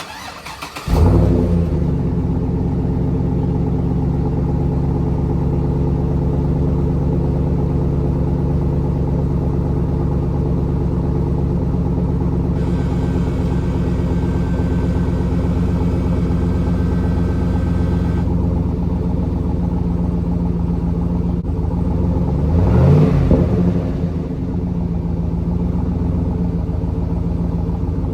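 Cadillac Escalade V8 cold-started through its stock muffler: it fires about a second in with a brief flare, then settles into a steady idle. About 23 s in it gives one short rev and drops back to idle.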